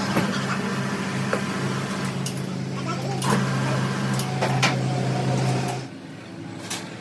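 A workshop machine running with a steady hum that stops about six seconds in, with scattered metal clicks and knocks.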